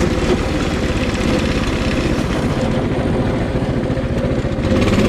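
Coleman 196cc single-cylinder four-stroke mini bike engine running under load at part throttle, pulling up a steep hill through its torque converter. It makes a steady, rapid engine beat that gets a little louder near the end.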